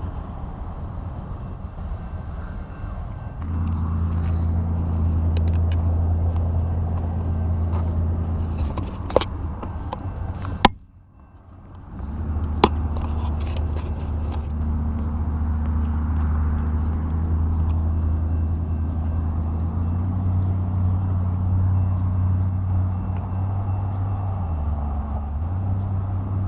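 A motor vehicle's engine running with a steady low hum, its pitch shifting slightly a couple of times, with a few sharp clicks and a sudden break of about a second near the middle.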